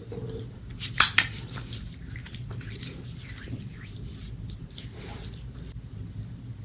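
Reformed gym chalk being crushed and crumbled by hand: two sharp cracks about a second in as the block breaks, then a run of faint dry crunching and crumbling.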